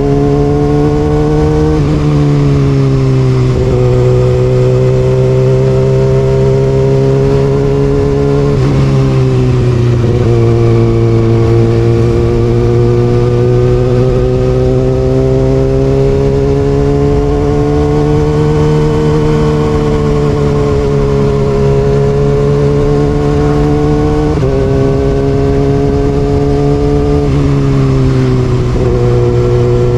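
Kawasaki ZX6R inline-four sport bike with an Austin Racing aftermarket exhaust, ridden at a steady pace. The engine pitch climbs slowly, then drops sharply a few times as the rider changes gear.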